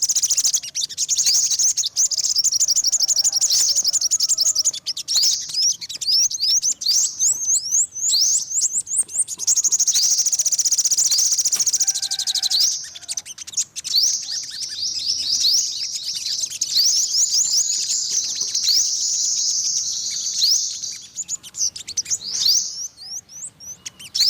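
Yellow-bellied sunbird song: long, very rapid trills of thin high notes, broken now and then by a few separate sweeping chirps.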